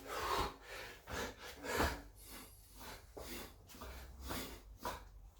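A man's heavy, laboured breathing: hard, noisy breaths about once a second as he works through burpee-style exercise, worn out by the effort.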